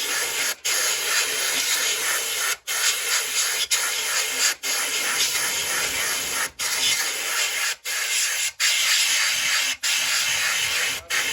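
Loud steady hiss of a pressurised jet, cut off briefly several times and stopping suddenly at the end.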